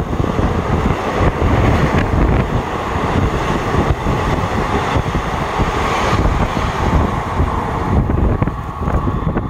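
Express train's passenger coaches passing at speed: a continuous rumble with rapid clatter of wheels over the rails.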